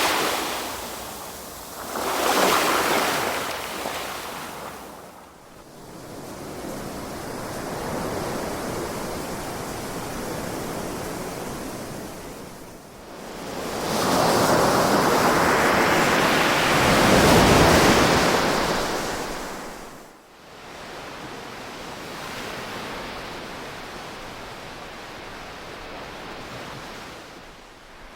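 Ocean waves breaking and washing up the shore in slow surges, one after another, the loudest and longest surge about halfway through.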